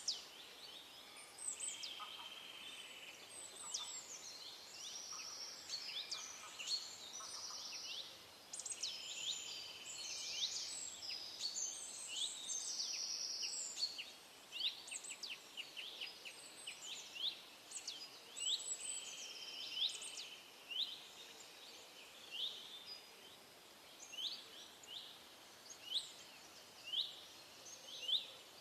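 Several small birds singing and calling together: many quick, high, down-slurred chirps mixed with short buzzy trills about a second long, thinning to single chirps roughly once a second in the second half, over a faint steady background hiss.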